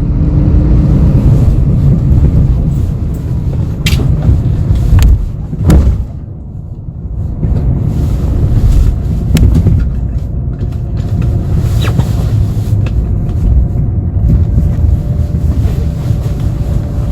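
Interior of a moving city bus: a steady, loud low rumble of engine and road noise, with a few sharp knocks or rattles and a short quieter stretch about six seconds in.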